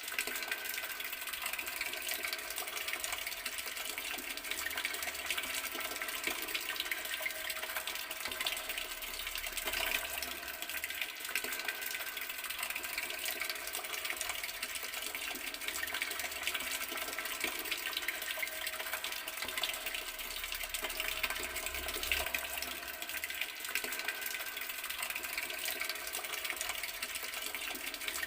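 Garden water tap running steadily, its stream splashing in an even rush with no pauses.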